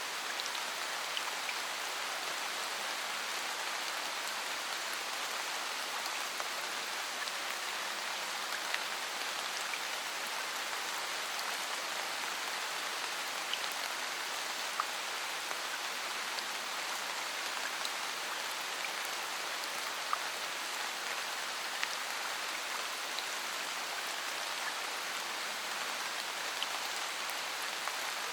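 Steady rain falling, a constant hiss with scattered ticks of single raindrops striking a surface.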